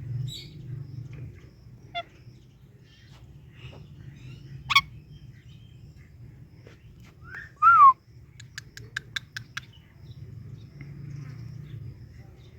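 Parrot calls, scattered and short, over a steady low hum. The loudest is a brief call that falls in pitch, about eight seconds in, followed at once by a quick run of about eight clicking chirps.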